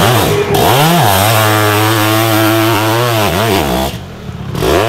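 Sidecarcross outfit's motorcycle engine revving hard, its pitch rising and falling repeatedly as the throttle is worked through the turns. About four seconds in it drops briefly, then revs up again.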